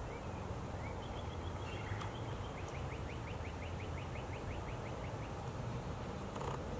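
A bird calling: a few short high notes, then a quick run of about fifteen short notes, some six a second, over a steady low rumble.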